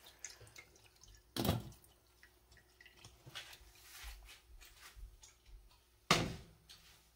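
Water dripping and small splashes at a kitchen sink, with scattered light ticks and two louder sudden sounds, one about a second and a half in and one near the end.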